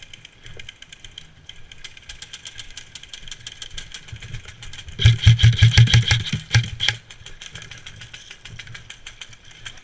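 Airsoft electric gun firing a full-auto burst of about two seconds, starting about five seconds in: rapid clicks over the whir of the gearbox motor. Faster, fainter shot ticks run throughout.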